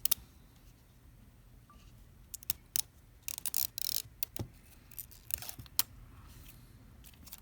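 Battery adhesive pull-tab being peeled out of a Samsung Galaxy S9 Plus, a short crackling rip a few seconds in, among scattered small clicks and taps of tools on the phone.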